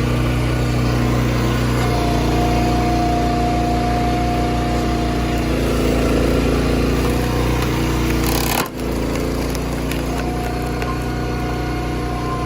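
Engine of heavy forestry machinery running steadily, with a higher steady whine that sets in about two seconds in, fades a few seconds later and returns near the end. The sound drops out for an instant about two-thirds of the way through, then carries on.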